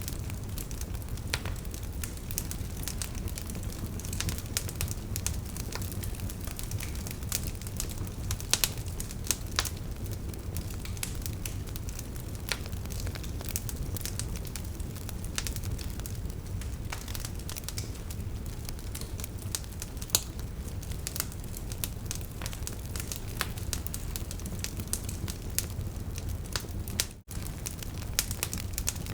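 Wood fire crackling: logs pop and snap with many scattered sharp cracks over a steady low rumble of flames. The sound drops out for a moment near the end.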